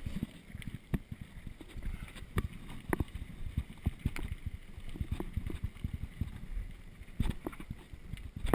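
Mountain bike rolling downhill over a rough trail: a low rumble with many irregular knocks and rattles as the wheels take bumps, with wind on the microphone.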